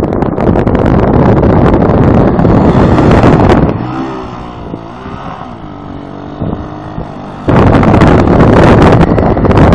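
ATV ride: wind buffeting the microphone over the engine. For a few seconds in the middle the wind drops and the engine is heard rising and falling in pitch, then the buffeting comes back suddenly.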